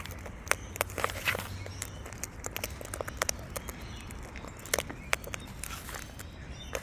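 Irregular sharp clicks and taps, several a second, from birds pecking and stepping about a feeding spot, over a faint low hum.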